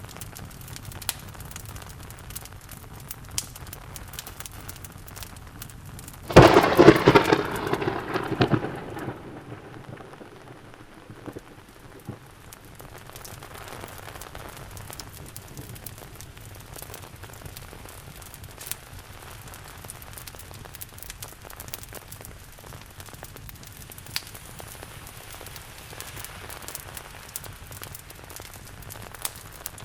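Steady rain with scattered crackles from a fireplace. About six seconds in, a loud thunderclap breaks out and rumbles away over two or three seconds.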